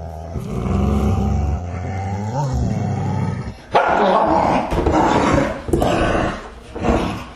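Animal calls: a drawn-out pitched call that rises and falls in pitch, then louder, harsh calls from about three and a half seconds in, broken by short gaps.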